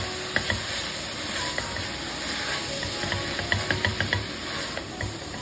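Onions and tomatoes sizzling in oil in a pressure cooker, stirred with a spatula that scrapes and knocks against the pot. A quick run of clicks and knocks comes about three and a half seconds in.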